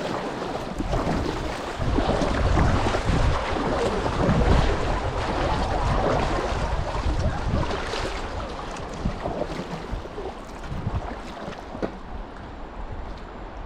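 Wind buffeting the microphone over the rush of moving creek water, strongest in the middle and easing toward the end, with a few light knocks.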